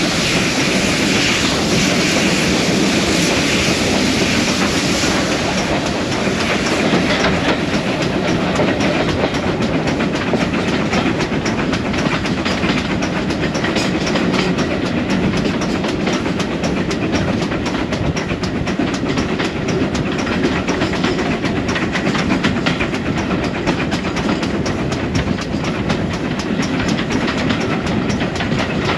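Passenger carriage of a steam-hauled train running along the line: a steady rumble of wheels on the rails with fast clicking, which grows sharper a few seconds in.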